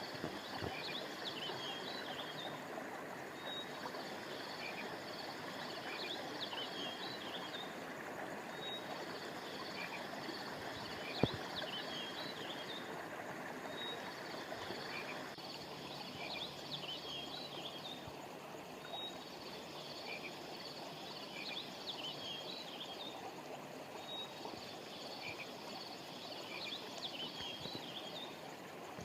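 Steady rushing of a flowing river or stream, with groups of high chirping calls, birds or frogs, repeating about every five seconds. A single sharp click sounds about eleven seconds in.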